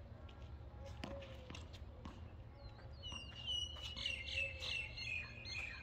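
A bird singing a rapid run of high chirps from about halfway through. Before that, a tennis ball is struck with a sharp knock about a second in, followed by a few fainter ticks, over a steady low rumble.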